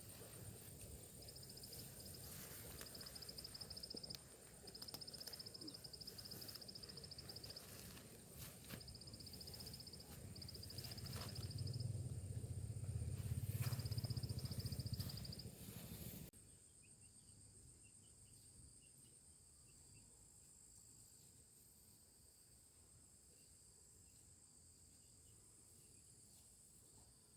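Insects trilling in short repeated bursts over a steady high whine, with scattered knocks and a low rumble. The knocks and rumble stop abruptly about sixteen seconds in, leaving only the faint, steady insect sound.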